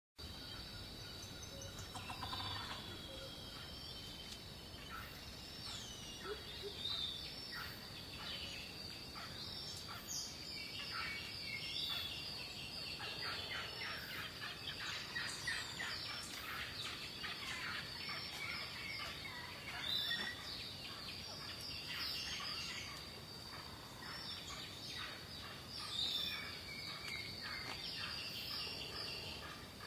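Birds chirping and calling, many short calls overlapping, over a steady high-pitched whine.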